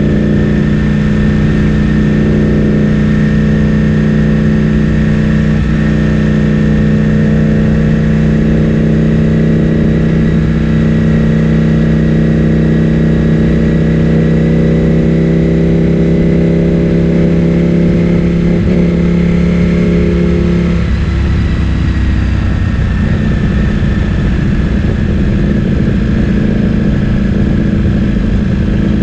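Ducati Streetfighter V4S's 1,103 cc V4 engine through an Akrapovic full-system exhaust, heard from on board while riding. It runs at a steady, even note, then about two-thirds of the way through the note shifts and turns rougher as the throttle changes, before settling again.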